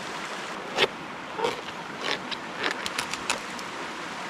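A run of short knocks and rustles, the loudest about a second in and the rest coming quicker near the middle, over a steady rush of running water.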